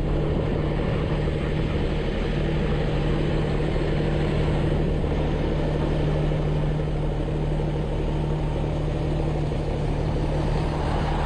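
Heavy diesel engine running steadily at a constant pitch, with no revving.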